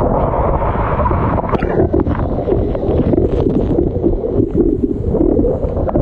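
Loud, steady rush of a monsoon waterfall, with wind rumbling on the microphone.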